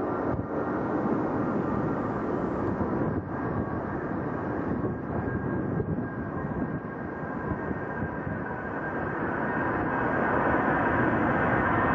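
Jet airliner's engines running, a steady rushing noise with faint high tones, growing louder over the last few seconds.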